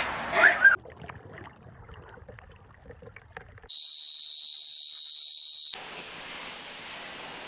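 A rooster's crow ends just as this begins, then a few faint clicks. About halfway through comes a loud, steady high-pitched whistle held for about two seconds, cut off sharply and followed by a steady hiss.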